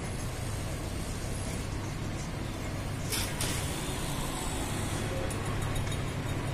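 Diesel-electric multiple unit train running past at slow speed: a steady low engine hum with rolling noise, and a short hiss about three seconds in.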